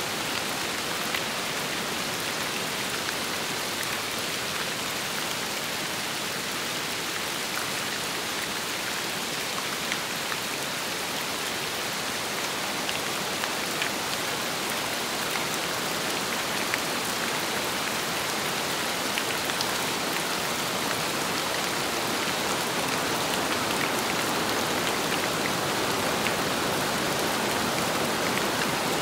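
Steady rain falling, with scattered sharper individual drops standing out; it grows slightly louder over the last few seconds.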